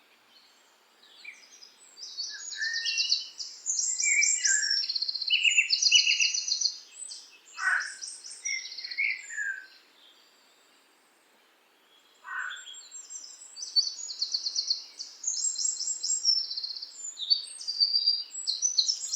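A songbird singing long, varied songs of rapid high trills and chirps, in two bouts with a pause of about two seconds in the middle.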